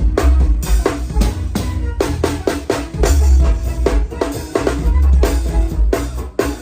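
Live band music led by a drum kit, with regular kick and snare hits over a heavy bass line.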